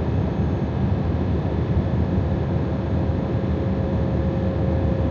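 Steady cab noise of a Freightliner Cascadia semi truck driving on the highway: engine and road noise, with a faint steady whine that comes in partway through.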